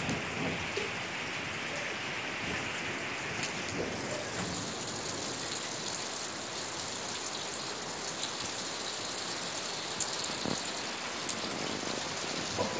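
Steady rain falling, an even hiss with scattered sharp drop hits close by.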